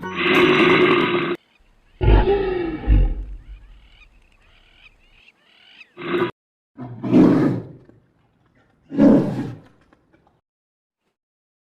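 A string of short, separate animal calls cut one after another, each lasting under a second, some breaking off abruptly, with silent gaps between them.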